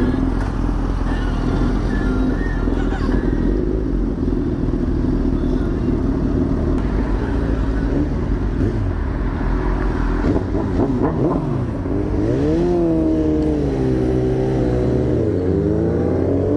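Motorcycle engine running on the move, steady at first; in the second half its note falls and rises again several times as the rider eases off and accelerates.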